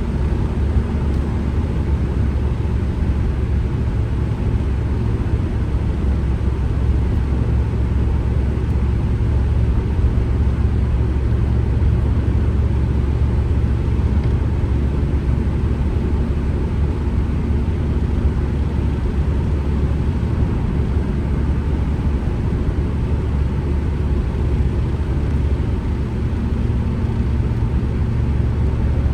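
Ford Transit Connect van driving, heard from inside the cab: a steady, low engine drone mixed with road rumble.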